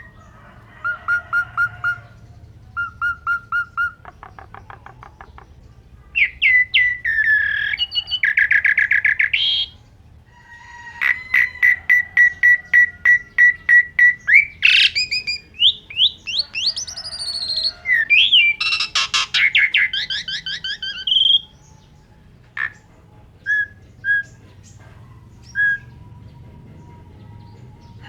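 Asian pied starling (jalak suren) singing a loud, varied song of rapid repeated notes, trills and gliding whistles, packed with imitated phrases. After about twenty seconds it thins to a few scattered single notes.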